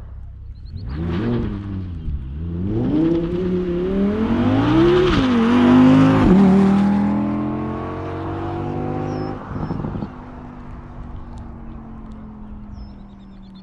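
Sports car accelerating hard from a standing start on a wet track, its engine revs climbing and dropping sharply at several quick upshifts, then holding and fading as it eases off.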